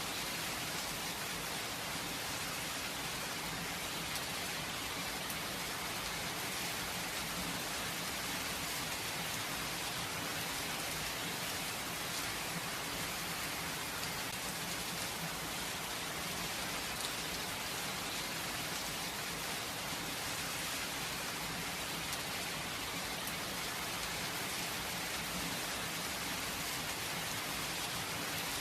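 Steady rain without thunder, drops pattering evenly on surfaces.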